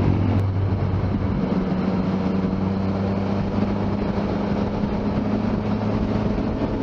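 Motorcycle engine running at a steady note while riding, with wind rushing past the camera.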